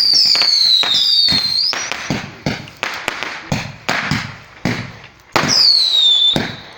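Fireworks going off in quick succession: a string of sharp bangs and cracks, mixed with whistling streaks that fall in pitch, one at the start, one about a second in and one about five seconds in.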